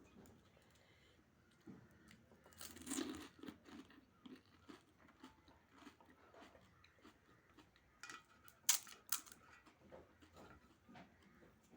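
A person eating pani puri: crisp, hollow puri shells cracking between the teeth, followed by chewing, with the loudest crunching bites about three seconds in and again near nine seconds.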